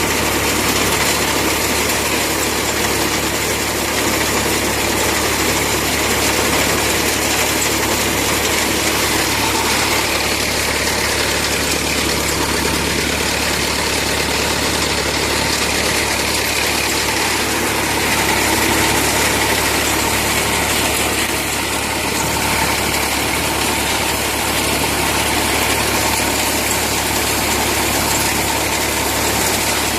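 Tractor engine running steadily, with dense, even mechanical noise and no pauses.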